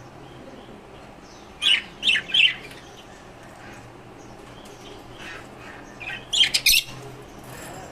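Small cage birds calling: three short, sharp calls in quick succession at about two seconds in, a few fainter chirps, then a rapid burst of four or five sharp calls near the end.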